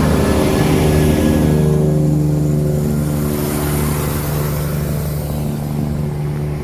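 Diesel engines of a Class 170 Turbostar multiple unit running with a steady low drone that slowly fades as the train pulls away.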